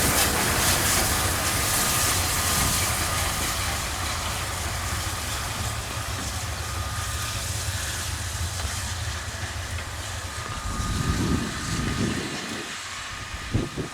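Steam locomotive 23 042 and its passenger coaches running past with a steady rumble and hiss that slowly fades as the train moves away. A few low thumps come near the end.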